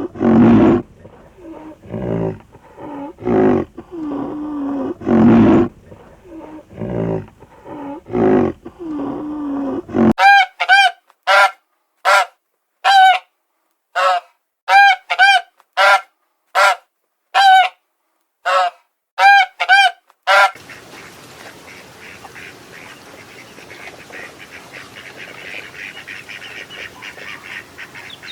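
Farm fowl calling: a string of lower calls for about the first ten seconds, then about a dozen short, sharp honks evenly spaced over the next ten seconds, then a steady background hiss.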